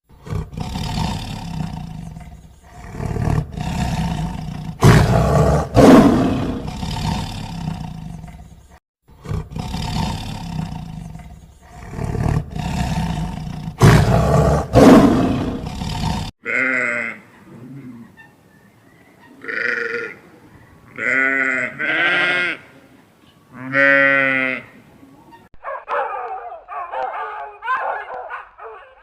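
Loud, rough animal calls, the same stretch heard twice, then a young goat bleating several times with a wavering pitch.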